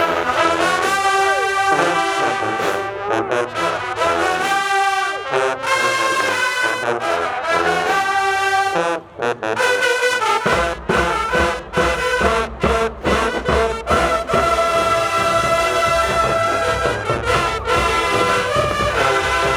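High-school marching band playing: the brass section plays loud held chords, breaks off briefly about nine seconds in, then comes back in with drums and low brass underneath.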